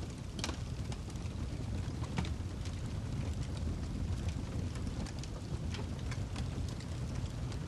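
Wood fire burning in a fireplace: a steady low rumble of the flames with irregular sharp crackles and pops from the burning logs, a loud one about half a second in.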